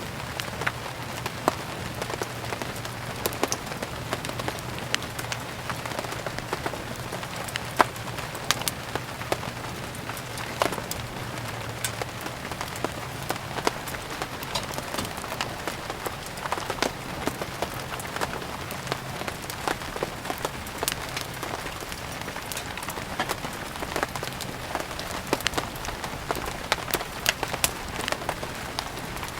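Steady rain falling together with a burning wood fire: a constant hiss of rain dotted with frequent sharp crackles and pops.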